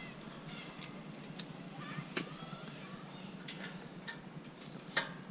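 A few light clicks and taps of scrap metal being handled, against a faint background of distant voices.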